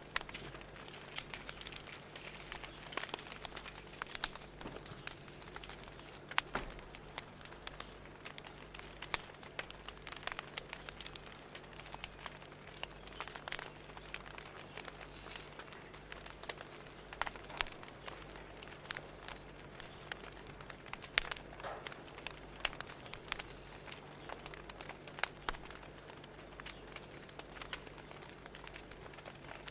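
Fire crackling: irregular sharp pops and snaps scattered over a steady soft hiss and low hum.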